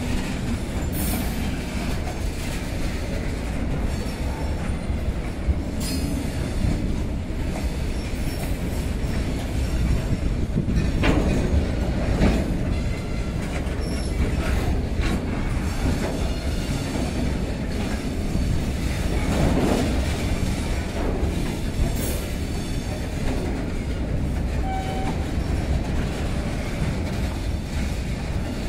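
A loaded train of BTPN petrol tank wagons rolling past close by: a steady low rumble of steel wheels on rails, with occasional sharp clicks.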